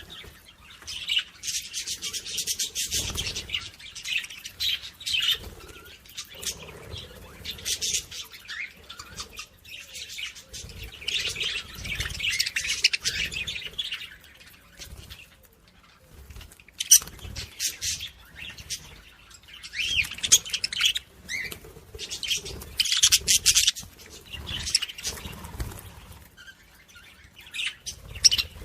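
Small songbirds chirping and twittering in busy bursts of a few seconds, with short gaps between, and soft low thumps under some of the bursts.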